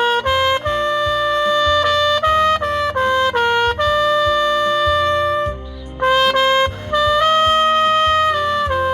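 Trumpet playing a slow melody of long held notes over a backing track with a steady bass line, with a short break in the melody about two-thirds through.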